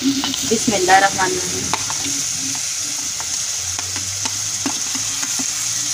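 Fried onion-tomato masala sizzling steadily in a metal pot as slices of boiled gram-flour dumplings are scraped off a tray into it with a metal spoon. Scattered sharp clicks come from the spoon knocking against the tray and pot.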